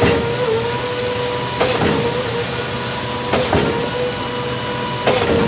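Concrete mixer truck running: a steady high hum, with a pair of sharp knocks repeating about every second and a half or so.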